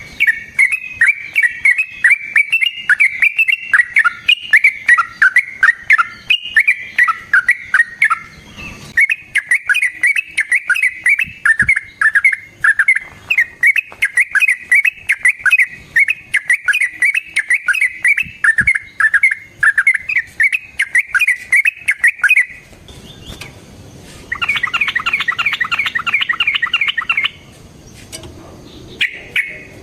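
Yellow-vented bulbul (trucukan) singing a long, rapid run of chattering, bouncing notes. This is the long-rolling song used to provoke other bulbuls into answering. After a short pause comes a buzzier, fast rattle lasting a few seconds, then a single brief note near the end.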